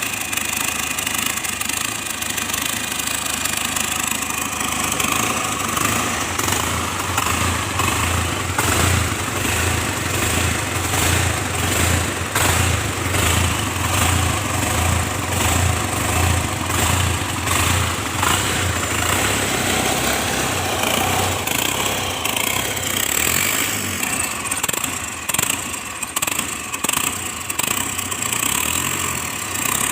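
2009 Ford Ranger engine idling with its speed hunting: the revs swell and drop in a steady rhythm about once a second, the sign of an unstable idle.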